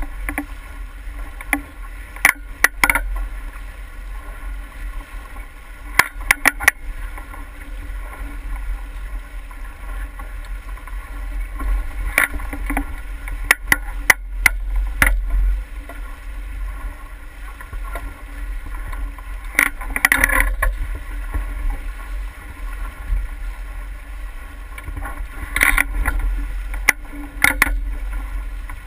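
Steady on-the-water noise aboard a boat under way in light wind: a low rumble of wind on the microphone and water, with scattered sharp clicks and knocks, a few louder patches of splashing or knocking spread through it.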